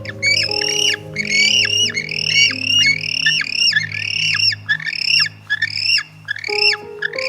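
A bird squawking in a rapid series of harsh calls, about two to three a second, each ending in a downward slide, over background music.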